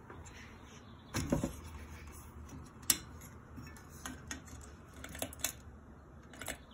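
A few scattered light clicks and taps over a faint low hum: a double tap just after a second in, a sharp click near three seconds, and lighter ticks after that.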